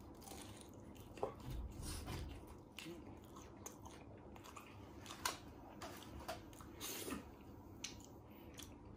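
Chewing a mouthful of fried battered mushrooms topped with cheese, close up, with irregular small crunches and wet mouth clicks.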